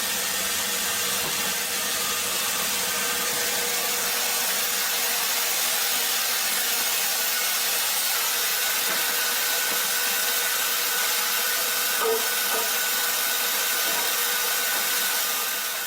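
Wood-cutting machine sawing through wood: a steady, hissing cutting noise with a faint whine, dying away at the very end.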